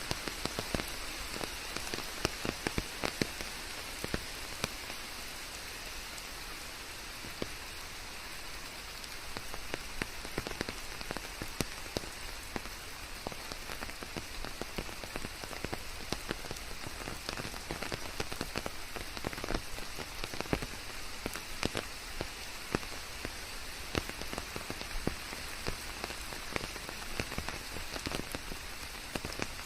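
Steady rain with a hiss and many separate raindrops ticking close by, falling on leaves.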